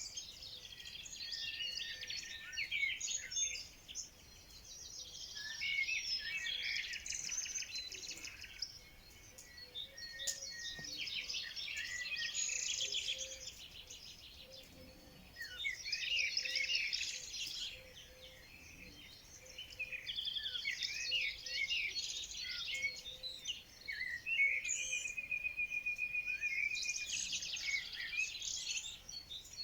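Songbirds singing: overlapping high chirping and warbling phrases that come in bursts a few seconds apart, with one fast, even trill near the end.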